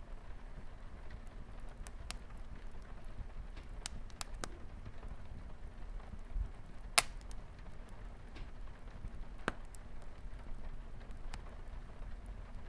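Wood fire crackling with scattered sharp pops, the loudest about seven seconds in, over the steady hiss of light rain on a window.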